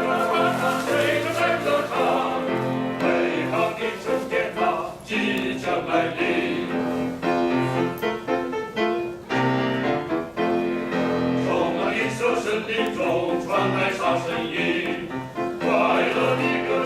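Small men's vocal ensemble singing in harmony with piano accompaniment.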